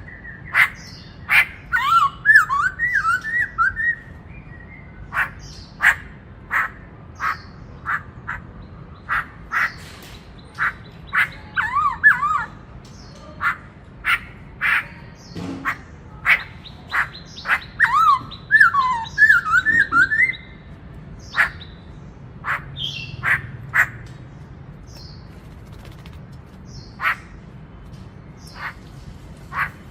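Black-throated laughingthrush singing: loud, sharp single notes at irregular intervals, broken three times by runs of quick up-and-down warbled notes.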